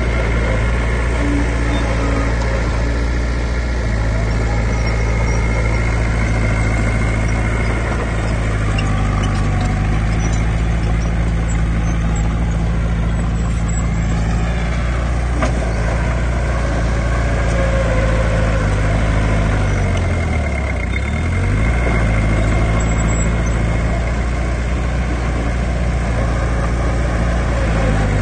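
Heavy diesel engine of earthmoving machinery running steadily. Its pitch shifts about a third of the way in, then dips and rises again about two-thirds through.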